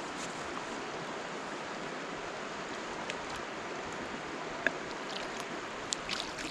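Steady rushing of a river, with a few faint clicks and taps over it.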